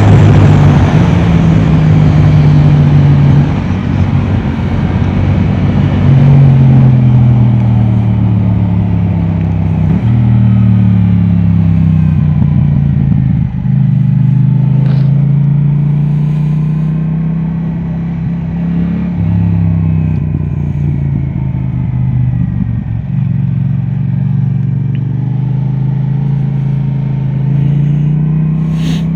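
Yamaha R7's 689 cc parallel-twin engine through an Akrapovic exhaust, ridden hard on a race track: the engine note climbs as it accelerates through the gears and drops as it brakes and downshifts, over and over. It is loudest in the first few seconds.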